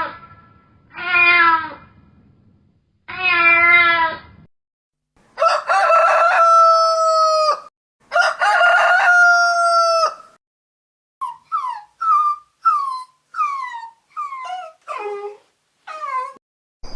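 Three short cat meows, then a rooster crowing twice with long, steady crows, followed by a quick run of short falling calls.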